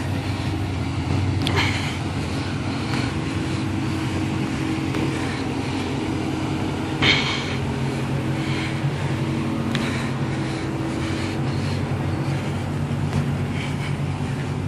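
Engines of Mopar muscle cars running as they roll slowly past in a line, a steady low engine note. A sharp knock about seven seconds in.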